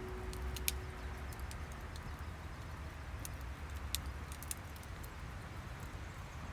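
Outdoor ambience: a low steady rumble with a faint hiss, and scattered sharp clicks and ticks, a few of them louder.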